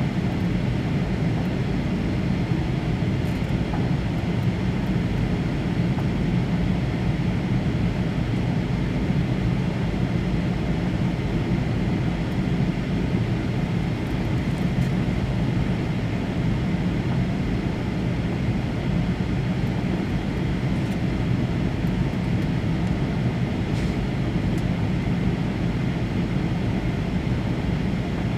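Steady cabin noise inside a Boeing 737-800 in flight: an even rush of airflow over the fuselage with the low drone of its CFM56 engines underneath, unchanging throughout.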